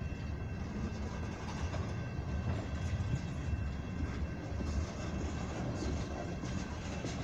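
Freight train of ethanol tank cars rolling steadily across a road grade crossing: a continuous low rumble of steel wheels on the rails.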